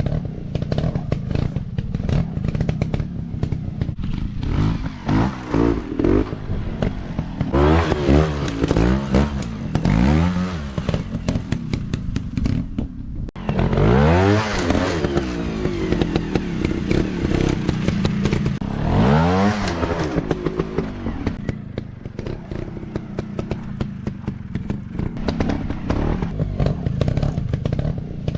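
Off-road dirt bike engines revving up and down again and again, with clatter and scraping mixed in.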